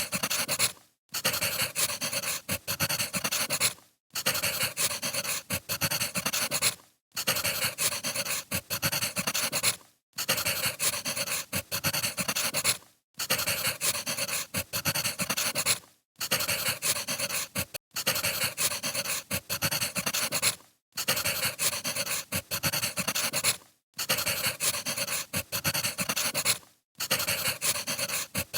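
Wood fire crackling, full of small pops and snaps, in stretches of about three seconds broken by brief gaps at an even spacing, like a short recording looped over and over.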